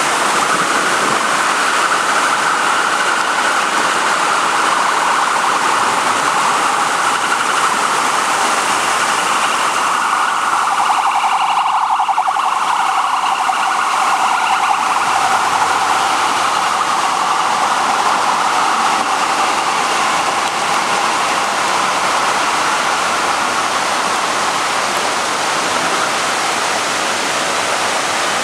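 Steady, loud rush of heavy rainwater, pouring rain and runoff making an even hiss without a break.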